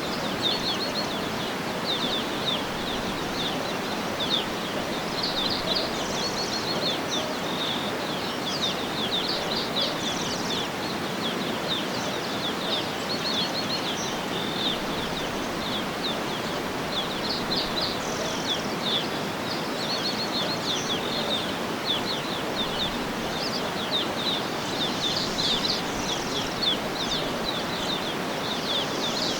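Birds chirping over and over in short high calls, over a steady rushing background noise.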